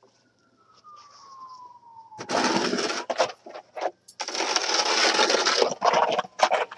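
Snow shovel scraping through snow on pavement in a series of strokes: a shorter one about two seconds in, a longer push lasting about a second and a half, then several quick short scrapes. A faint falling tone, like a distant siren, is heard in the first two seconds.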